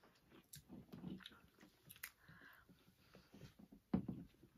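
Quiet, close-up chewing of spaghetti, with light clicks of forks scraping in plastic bowls and one louder thump near the end.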